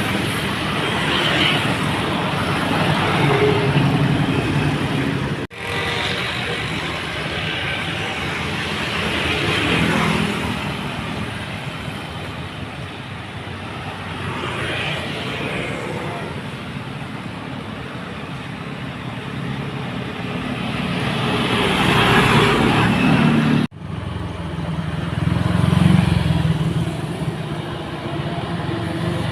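Heavily loaded dump trucks driving past one after another: diesel engines running under load and tyres hissing on the wet road, swelling as each one passes. The sound drops out abruptly twice.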